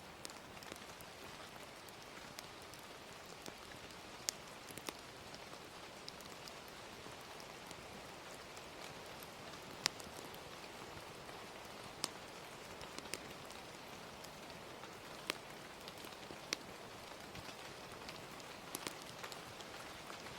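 Gentle rain hissing steadily, with a crackling fire's sharp pops scattered irregularly through it, a dozen or so over the span.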